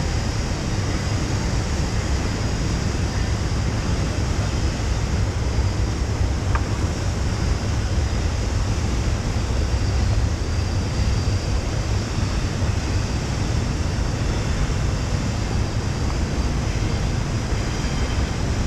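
Steady rushing roar of whitewater pouring through a river rapid, with a heavy low rumble underneath.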